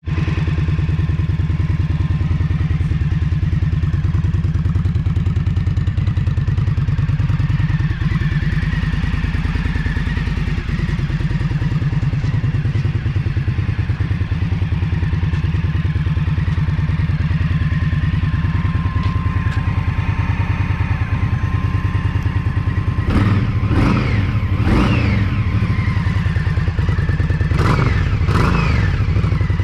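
2024 Indian Scout Bobber Sixty's liquid-cooled 999 cc V-twin idling steadily, then revved in four or five quick blips near the end.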